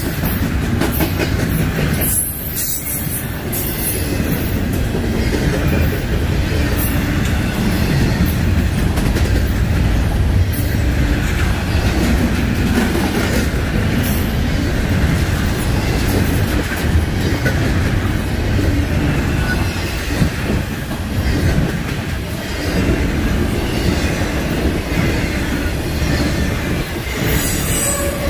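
A freight train's cars rolling past on the main line: a steady, loud rumble of steel wheels on rail, with occasional sharp clacks from the wheels.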